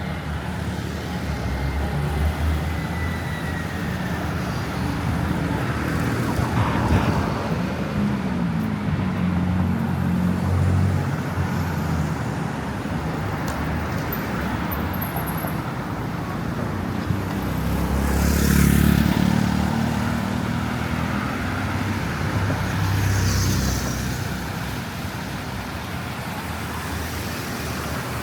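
City street traffic: a steady rumble of engines with several vehicles passing close by, one after another, the loudest pass about two-thirds of the way through.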